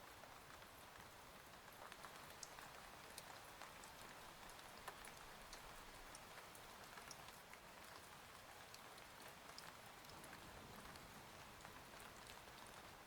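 Faint steady rain ambience, a soft even patter with scattered sharper drop taps throughout.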